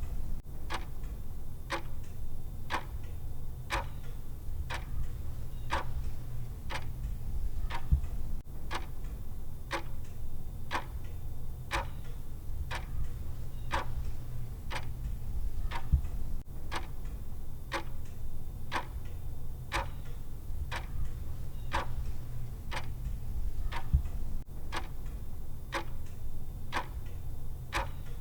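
Clock ticking from a countdown timer's tick sound track: sharp, evenly spaced ticks a little faster than one a second, over a steady low hum.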